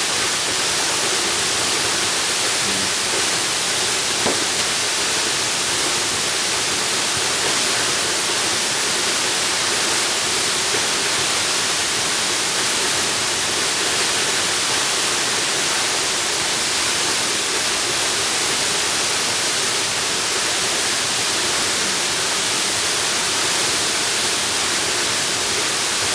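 Waterfall rushing: a steady, unbroken hiss of falling water, strongest in the upper range.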